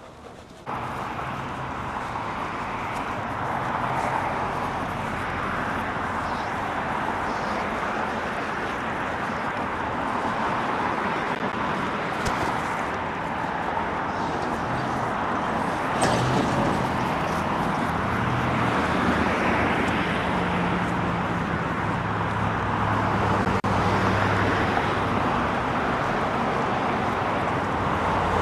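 Steady road traffic noise from passing cars, starting suddenly about a second in.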